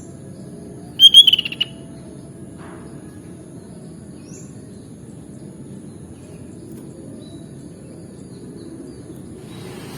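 Sooty-headed bulbul giving one short burst of quick chirping notes about a second in. It sounds over a steady low rumble and a thin, steady high-pitched whine. A vehicle's noise rises near the end.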